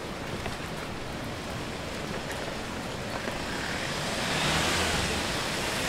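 Rain ambience on a wet street: a steady wash of rain noise that swells louder about four seconds in.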